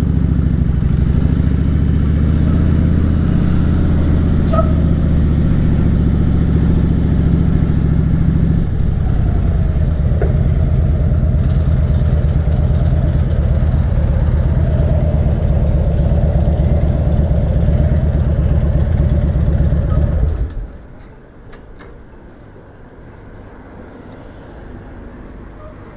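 Harley-Davidson Dyna Switchback's V-twin engine running steadily under way, its note changing about a third of the way in. The engine sound cuts off suddenly about 20 seconds in, leaving quieter background noise.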